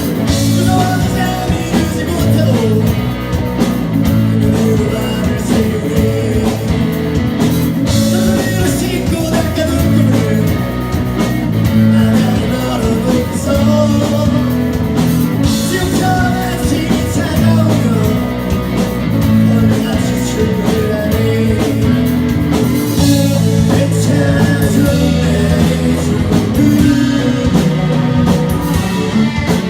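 Live rock band playing loudly: two electric guitars, bass guitar and drum kit, with a lead singer's voice over them.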